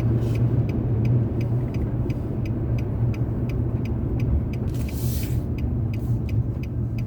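Steady engine and road rumble inside a car's cabin, with a regular ticking at about three ticks a second, typical of a turn signal while waiting at a junction. About five seconds in, a brief hiss rises and fades.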